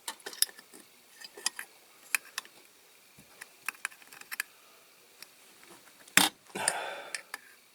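Small metal clicks and taps of a hand tool prying at a bent-over tab on a diecast toy part, which is stubborn to come free. A sharper click comes about six seconds in, followed by a brief scraping.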